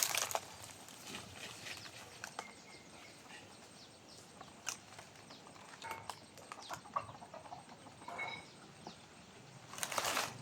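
Footsteps crunching on dry ground at the very start and again near the end. In between is a quiet stretch with a few faint scattered clicks and short, faint high peeps.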